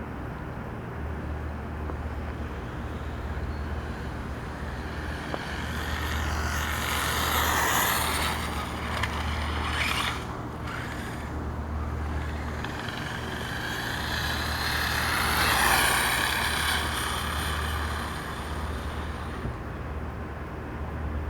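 A 1/5-scale Redcat RC monster truck running on an 8S battery, driven in two runs: its motor and drivetrain whine rises in pitch and loudness and then falls away, once about six seconds in and again around the middle. A steady low hum lies under it throughout.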